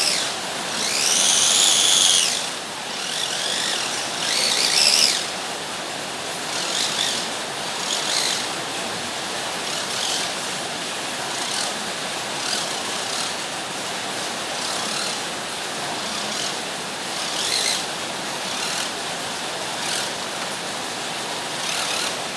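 Small electric motors of RC toy cars whining in short bursts over a steady hiss, with a rising and falling whine in the first two seconds and another at about five seconds, then brief spurts every second or two.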